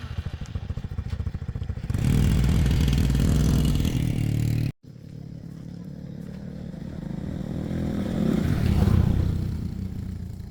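Small motorcycle-type engine running with a pulsing beat. It starts suddenly, gets louder about two seconds in and cuts off for an instant near the middle, then comes back, swelling and fading near the end.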